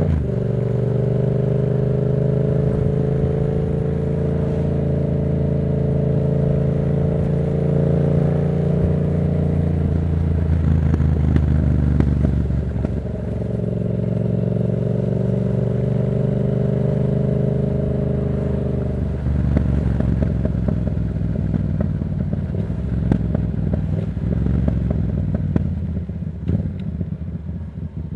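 Yamaha MT-07's 689 cc parallel-twin engine, breathing through a Black Widow aftermarket exhaust, running under way at fairly steady revs. The engine note shifts about twelve seconds in and again near nineteen seconds. Toward the end it falls back and turns rougher.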